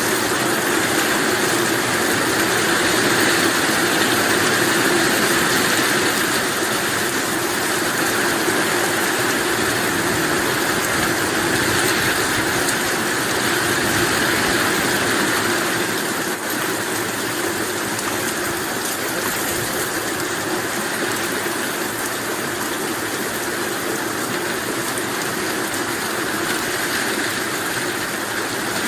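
Heavy rain falling steadily, a dense, even wash of sound that eases slightly about halfway through.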